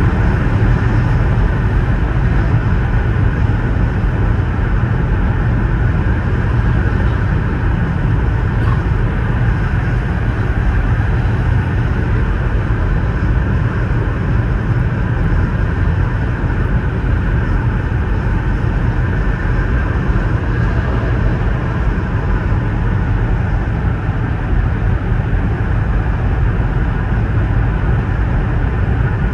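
High-speed bullet train running at about 346 km/h, heard from inside the passenger car: a loud, steady, deep running noise that does not change.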